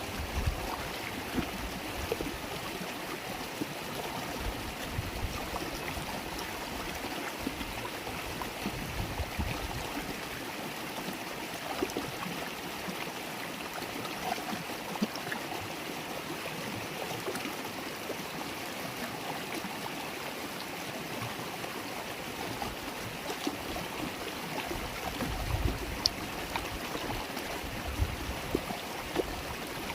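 River water flowing and babbling steadily, with a few brief low rumbles.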